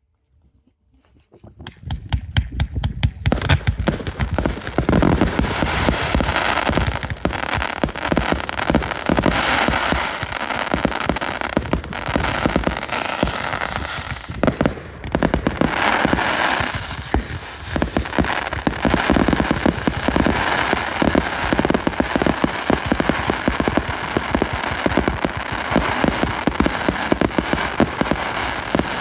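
Fireworks display: after a quiet second and a half, a dense, continuous barrage of bangs and crackling starts and keeps going without a break.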